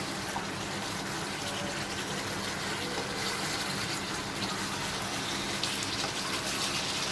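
Chicken and masala sizzling steadily in a non-stick kadai on high flame as they are roasted dry, with faint crackles and a steady low hum underneath.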